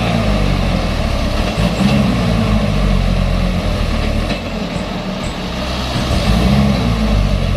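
Truck's diesel engine revving hard under load, its pitch rising and falling several times as it strains to pull forward on a muddy climb.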